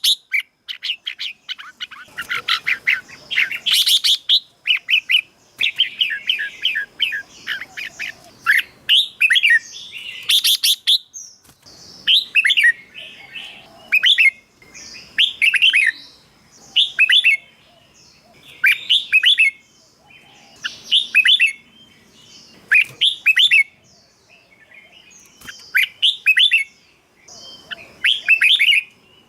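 Red-whiskered bulbul song: busy, rapid chattering for about the first ten seconds, then short bright phrases repeated about every two seconds.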